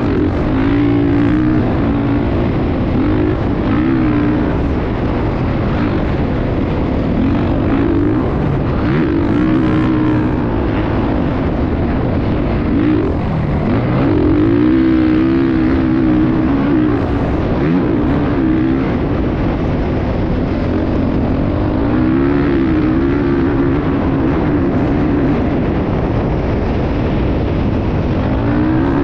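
Motocross motorcycle engine running hard, its pitch rising and falling over and over as it revs up and eases off.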